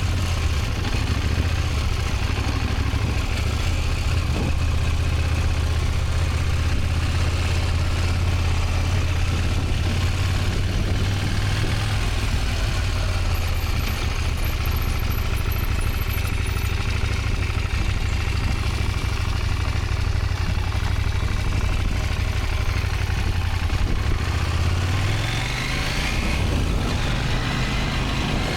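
Motorcycle engine running steadily at low speed, its pitch rising about three-quarters of a second as it speeds up near the end, with wind hiss over it.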